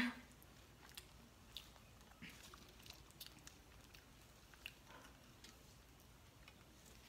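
Faint chewing of a soft burger, with scattered small clicks and taps.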